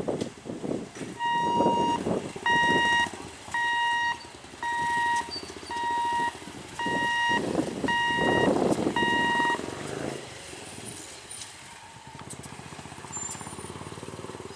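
About eight evenly spaced electronic warning beeps, each a steady tone lasting about half a second, over the running noise of a passing train. The beeps stop about ten seconds in and the train sound fades.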